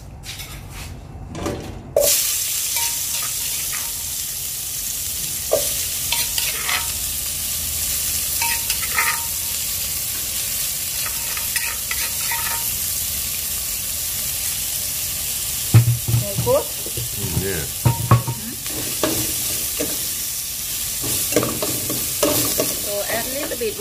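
Pounded shallot, chili and lemongrass paste sizzling in a hot aluminium pot with a little oil, the sizzle starting suddenly about two seconds in and running steadily, while a metal spoon scrapes and stirs it against the pot.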